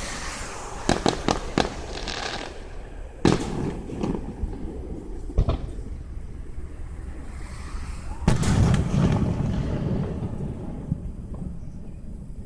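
Aerial fireworks shells bursting: a quick run of four sharp cracks about a second in, single bangs a few seconds later, and the loudest boom about eight seconds in, trailing off in a long low rumble.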